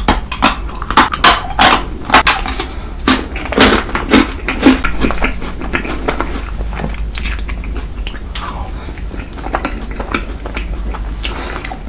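Close-miked eating sounds: cutlery clinking against a dish and chewing, with rapid sharp clicks and crackles that thin out after about five seconds, over a steady low hum.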